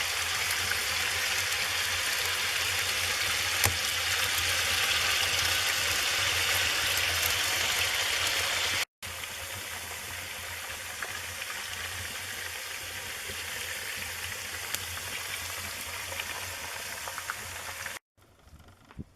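Wood fire burning in a fireplace: a dense, hissing crackle with many small pops and one louder pop about four seconds in. The sound cuts abruptly to a quieter fire about halfway through, and again to a much fainter one near the end.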